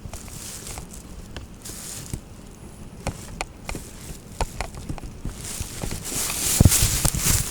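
Raindrops from a thunderstorm tapping irregularly on a hard surface, then a rising hiss as the rain comes down harder about two-thirds of the way in, with a couple of heavy thuds near the end.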